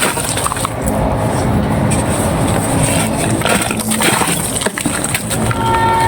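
Dry, hand-made red sand clay crumbling and crunching, a dense run of small crackles and cracks. Some steady tones come in near the end.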